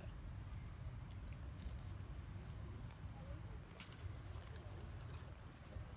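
Outdoor ambience: a steady low rumble with scattered faint clicks and a few short, high, faint chirps.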